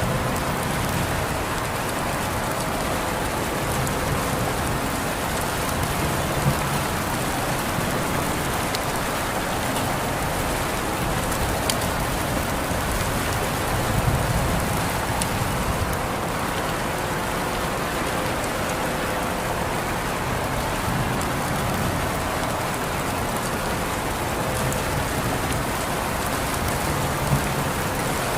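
Steady rain falling in an even hiss, with a couple of sharper drip ticks, one about six seconds in and one near the end.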